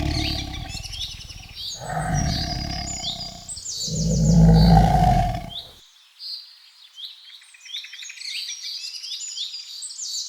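A tiger roaring, three long deep roars (the first already under way), over birds chirping and twittering; the roars stop about six seconds in, leaving only the birdsong. The tiger is calling its cubs.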